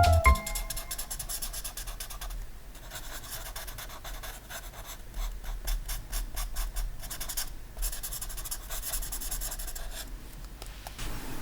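Ink pen scratching across paper in short, irregular strokes while drawing. The tail of a music note fades out right at the start.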